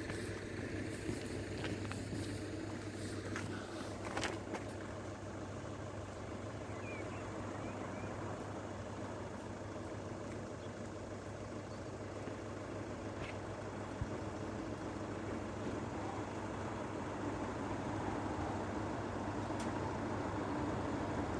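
Steady road-vehicle noise with a constant low hum and a few faint clicks in the first few seconds, slowly growing louder toward the end.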